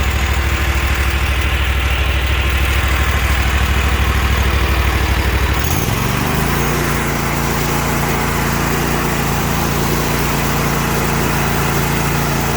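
A vehicle engine running at a low idle, then about halfway through speeding up and holding a higher steady pitch.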